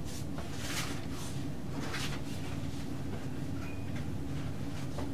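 Steady low mechanical hum, like a fan or ventilation running, with a few soft brief rustles or clicks of handling.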